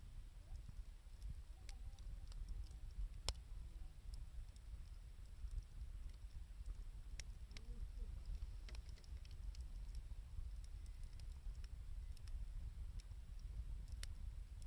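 Wood fire of scrap 2×4 lumber and scavenged wood crackling, with scattered sharp pops over a steady low rumble. The loudest pops come about three seconds in and near the end.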